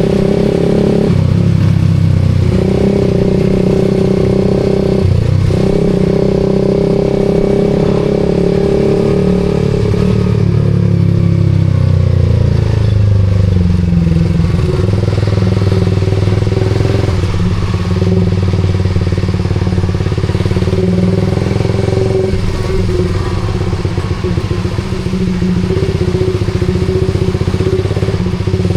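Suzuki GSX-R150's single-cylinder engine running through an aftermarket SARP exhaust while riding. The note breaks briefly three times in the first six seconds, falls in pitch as the bike slows from about ten seconds in, then holds a steady cruise.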